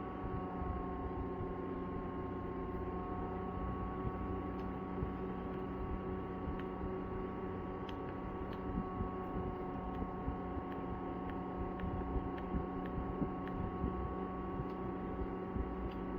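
Small electric fan motor humming steadily, with a few faint, irregular ticks.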